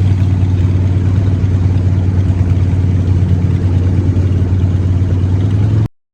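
Harley-Davidson V-twin engine running steadily through Vance and Hines exhaust pipes, loud, with a strong low note and rapid firing pulses; it cuts off suddenly near the end.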